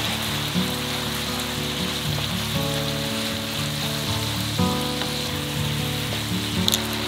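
Spaghetti with pollock roe and garlic scapes sizzling in olive oil in a frying pan as it is stirred and tossed with a wooden spatula, with a few light clicks near the end. Gentle background music with sustained chords plays over it.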